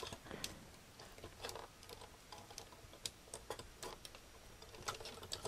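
Faint, irregular little clicks and taps of plastic model-kit parts being handled and test-fitted, the parts of a Super Minipla GaoGaiGar kit.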